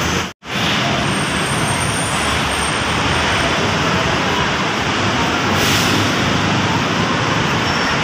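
Steady, loud road traffic from a busy avenue with buses and trucks, broken by a sudden drop-out to silence for a moment about half a second in.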